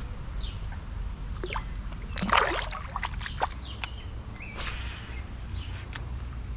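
Creek water splashing and sloshing over a steady low rumble, with one louder splash a little over two seconds in and several short, sharp splashes or clicks after it.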